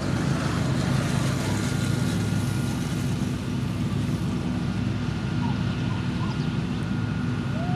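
Heavy road-construction machinery's diesel engine running steadily, with a thin steady whine above it.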